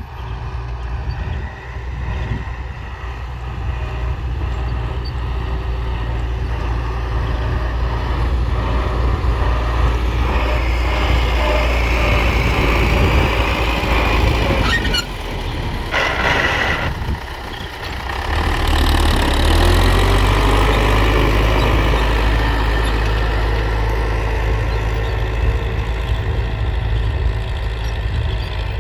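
Belarus tractor's diesel engine running steadily. About halfway through, the low rumble drops briefly under a short hiss, then returns with the engine note rising.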